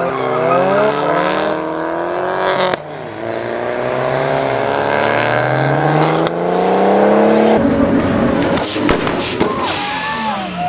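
Modified Nissan Silvia drift car's engine revving hard, its pitch climbing through long pulls. About three-quarters of the way in, it gives way to a rough, noisy stretch of tire and exhaust noise as the car slides.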